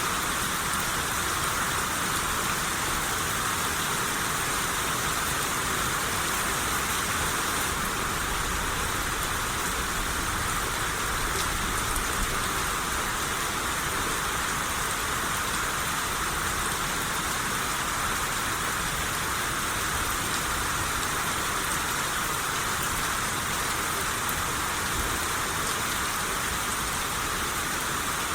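Steady, even rain shower falling.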